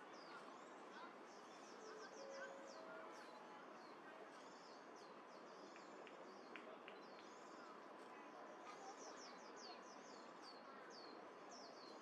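Faint outdoor ambience: small birds chirping in quick series of high, short downward-sliding notes over a steady background noise.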